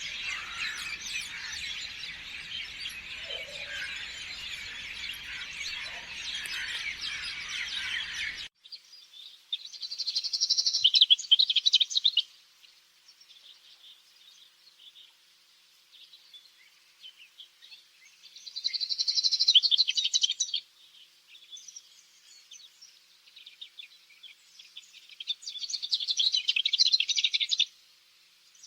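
Birdsong: a dense chorus of many birds that cuts off suddenly about eight seconds in, then a single bird singing a loud, rapid trilling phrase three times, about every eight seconds, with faint chirps between.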